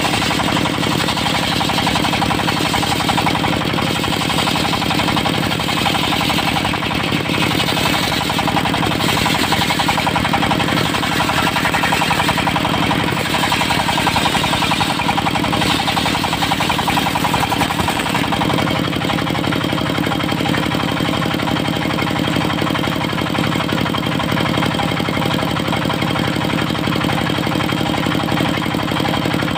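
Diesel engine of a mobile circular sawmill running steadily under load, with the blade's harsher hiss of cutting trembesi wood over it for about the first two-thirds. The hiss then falls away, leaving the engine running on its own.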